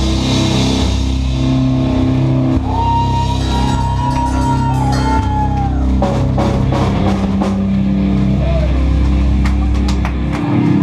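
Live rock band playing: distorted guitars, bass and drum kit, with a high melodic line a few seconds in and cymbal crashes in the second half. The song ends near the end.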